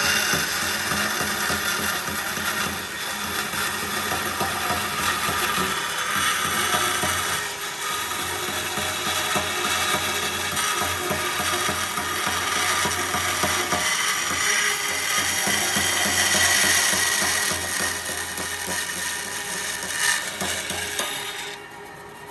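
Woodworking power tool running with a fast, continuous rattle; it stops shortly before the end.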